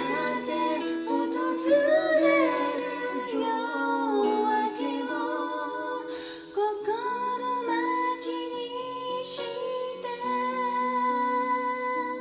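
A woman's voice singing a slow Japanese pop ballad over a piano backing track, with long held notes that waver in vibrato in the second half.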